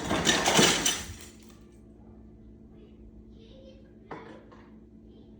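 Ice cubes rattled and clattering in a container, loud for about the first second, then stopping. A shorter clatter comes about four seconds in.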